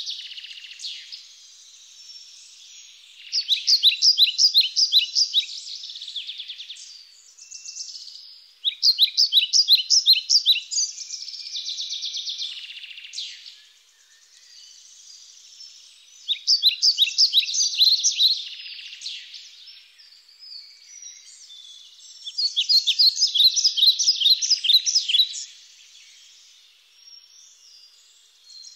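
Birds calling: four loud phrases of rapid, repeated high chirps, each about two to three seconds long, with quieter chirping in between.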